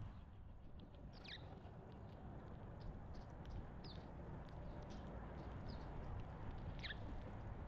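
Small wild birds calling at a feeding spot: four short chirps, each sliding down in pitch, spread over several seconds, with faint scattered clicks over a low steady background noise.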